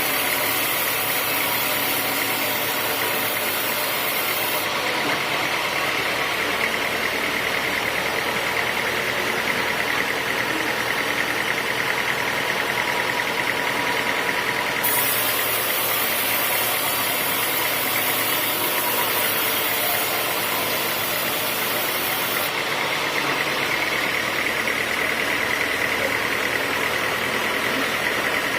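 A sawmill's engine-driven saw running steadily, with a constant high whine over its engine noise. The top end changes in brightness a few times.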